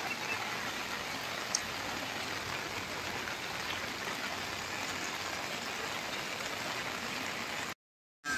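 Steady rain falling, an even hiss of drops. The sound cuts out completely for about half a second near the end.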